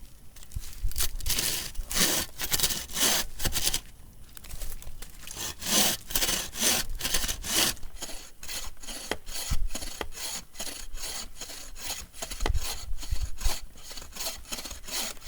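Hand saw cutting through a dense hardwood log in repeated push-pull strokes, about two a second, with a short pause about four seconds in.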